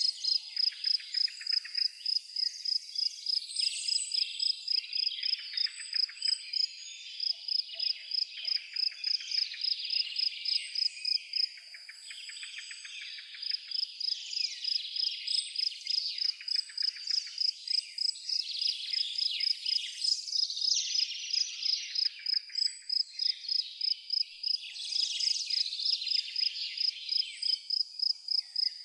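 A cricket chirping steadily, about two high chirps a second, with a gap of a couple of seconds near the middle. Behind it, birds are singing in busy, overlapping chirps and trills.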